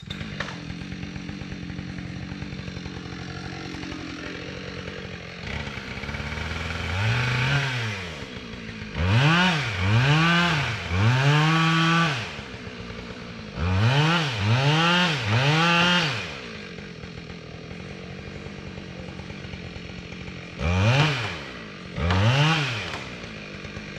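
Chainsaw making the back cut through a leaning maple trunk: it runs steadily for the first few seconds, then in repeated throttle bursts, each rising and falling in pitch, with lower running between them.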